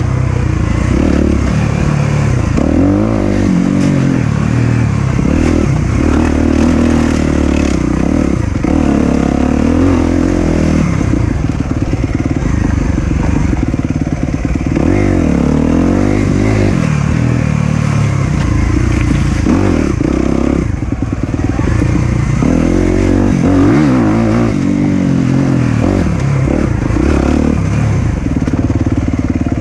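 Four-stroke dirt bike engine running under riding load, its pitch rising and falling over and over as the throttle is worked on and off along the trail.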